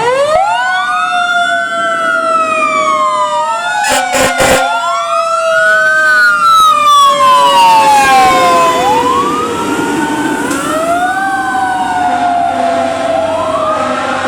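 Fire truck sirens wailing: two sirens overlap, each rising quickly and falling slowly over and over, with a few short sharp bursts about four seconds in.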